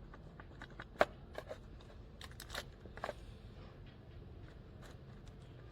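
Small objects being handled at close range: scattered light clicks and rustles, with one sharper click about a second in and a few more soon after.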